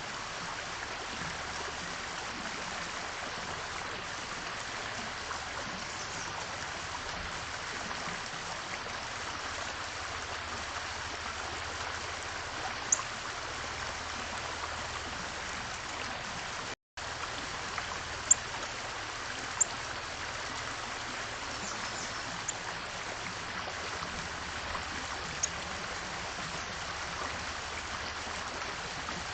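Small birds giving a few short, high chirps, spread out, over a steady rushing noise. The audio drops out for a split second a little over halfway through.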